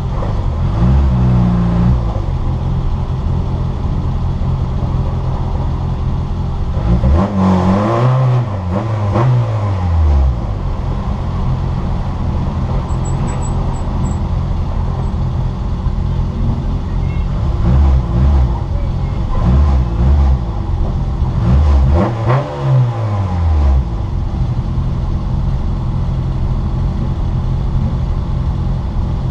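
Citroën Saxo VTR race car's four-cylinder engine running hard on track, heard from inside the car. Its pitch drops and climbs again in several sweeps as it shifts gears, most clearly around a third of the way in and again in the second half.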